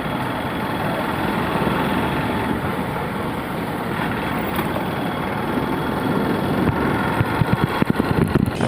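Steady engine and road noise of a vehicle being driven along a road.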